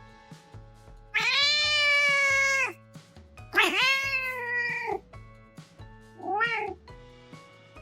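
A domestic cat meowing loudly three times: two long, drawn-out meows and a shorter one near the end, over background music.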